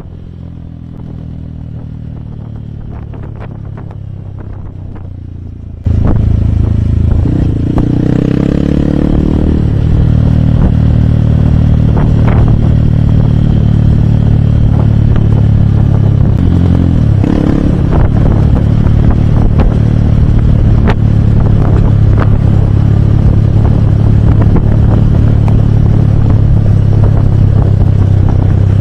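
Hero Hunk's single-cylinder engine running under way, a steady beat with sharp ticks over it. About six seconds in it suddenly gets much louder, and the pitch rises and shifts a couple of times, around the ninth and seventeenth seconds, as the bike changes speed.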